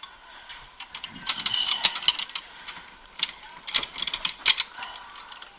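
Ratchet wrench clicking in two quick runs, about a second in and again near the four-second mark, as the cylinder head bolts of a Honda F23A engine are tightened down.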